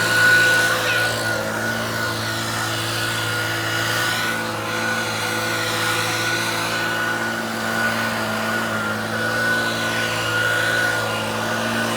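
A motor running steadily at a constant pitch.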